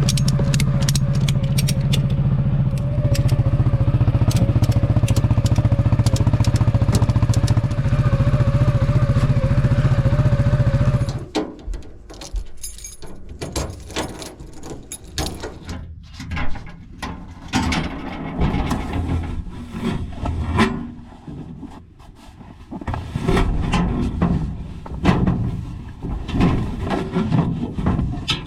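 A CFMoto off-road buggy's engine running steadily, with a wavering whine above it. It cuts off suddenly about eleven seconds in, and irregular clattering and scraping follow.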